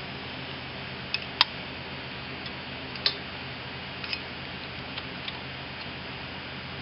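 A few scattered metallic clicks of pliers and a wrench on an ATV engine's valve adjuster screw and lock nut, the loudest about a second and a half in, over a steady low hum.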